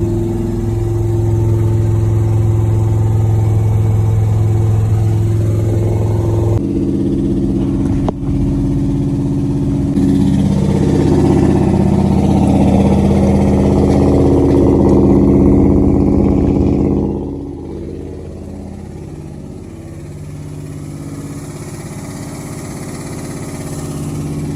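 Freshly rebuilt pickup truck engine running while driving, the engine note changing abruptly about a quarter of the way in, then easing off and quieter for the last third.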